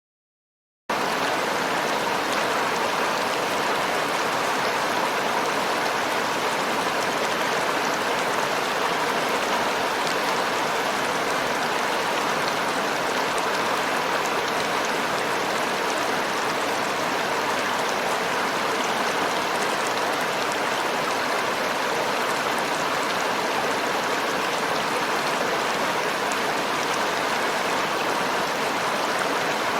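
River water flowing, a steady continuous rush with no change in level. It starts abruptly out of silence about a second in.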